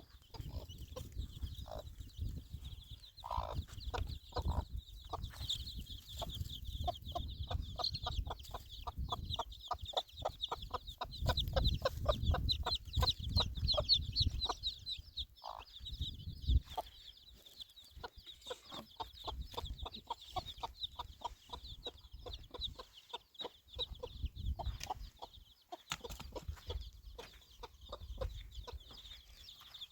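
Chickens clucking, with a run of rapid, evenly spaced clucks in the middle, over a steady high-pitched chirring and a low rumble.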